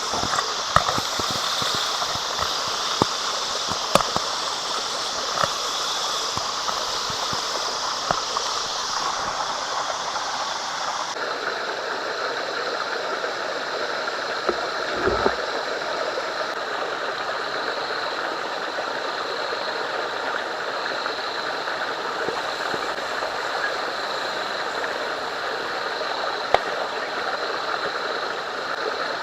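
Steak sizzling on a grill over a fire: a steady hiss with scattered crackling pops. The hiss changes tone about eleven seconds in.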